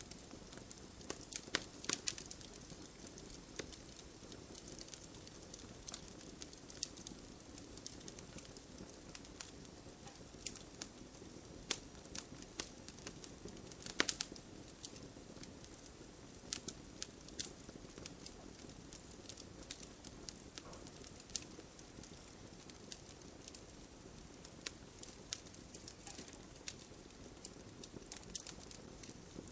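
Wood bonfire crackling with irregular sharp pops, the loudest about halfway through, over a steady patter of rain.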